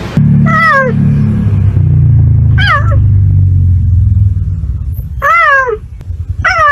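A cat meowing four times in short calls that fall in pitch, over a continuous low rumble.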